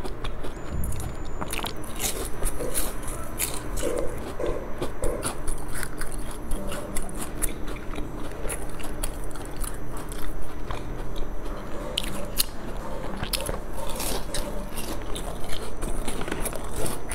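A person biting and chewing food close to the microphone, with many short crisp clicks and crunches.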